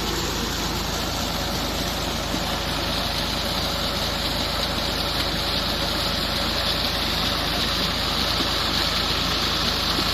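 Massey Ferguson 240 tractor's diesel engine running steadily, driving a tubewell pump.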